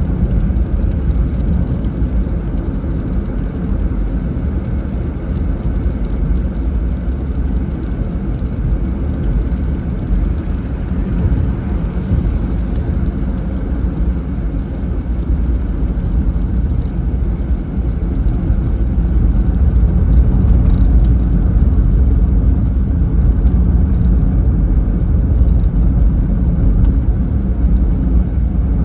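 Steady low rumble of a car driving on a wet road in the rain, with tyre and rain noise; it gets louder about two-thirds of the way through.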